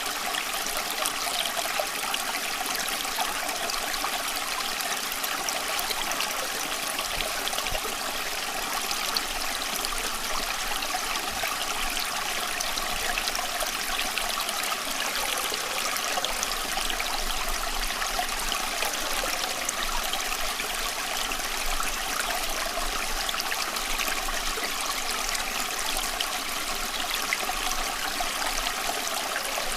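Running water: a stream flowing and trickling with a steady, even rush, full of fine splashes.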